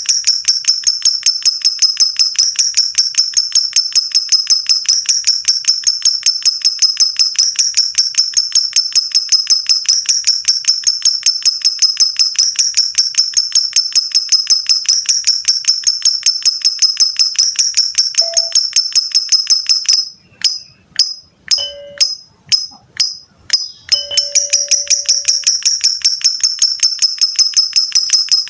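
Lovebird ngekek: a long, rapid chattering trill of sharp, high notes, about ten a second. It breaks off about twenty seconds in for a few separate chirps, then starts again.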